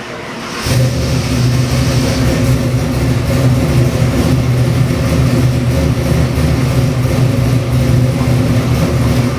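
Ford 408 Windsor stroker V8 with Holley EFI running steadily. It comes in abruptly less than a second in.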